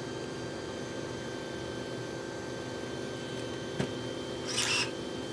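Steady electrical hum with a faint hiss, broken by one sharp click about four seconds in and a brief scraping rustle just after.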